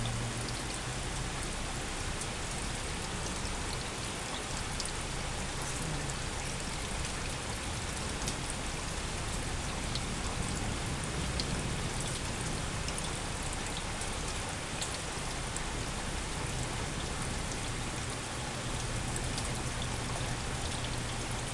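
Steady heavy summer rain falling, with individual drops ticking now and then over the even downpour, and a faint low hum underneath.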